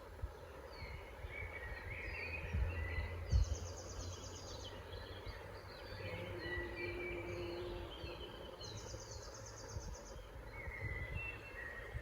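Several woodland birds singing at once: a short falling note repeated about twice a second, two fast rattling trills, and scattered warbling phrases. Underneath runs a low rumble, with a dull low thump about three and a half seconds in.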